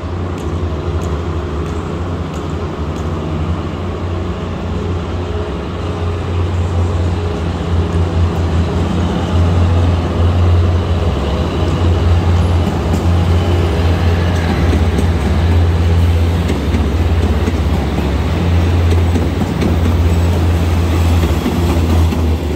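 Diesel multiple-unit commuter train approaching and rolling slowly past, its engines running with a steady low hum that grows louder about halfway through as the railcars draw alongside.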